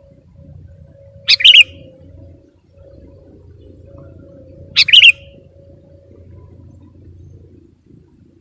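Sooty-headed bulbul calling twice, about three and a half seconds apart, each call a short quick burst of two or three bright notes. A faint steady hum runs underneath.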